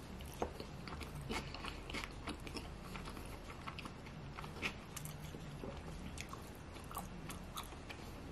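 A person chewing a mouthful of sushi roll with the mouth closed, close to the microphone: faint, irregular small clicks and smacks of chewing.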